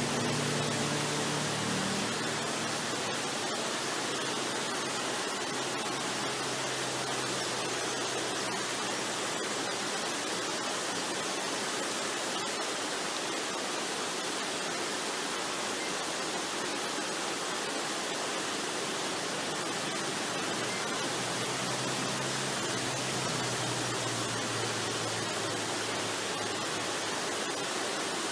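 Steady rushing of a waterfall, an even hiss of falling water, with faint low held notes of soft relaxation music near the start and again about three-quarters of the way through.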